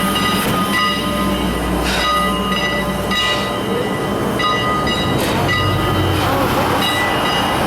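Train running on the rails, a steady rumble with several high steady tones and brief surges of noise every second or two.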